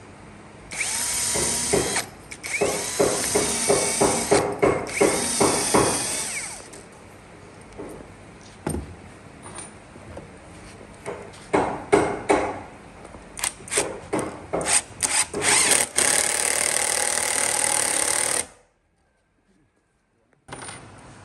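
Power tool cutting wood in repeated short bursts, followed by a quick run of sharp knocks and a longer steady stretch of the tool running. The sound then cuts to silence for about two seconds before resuming.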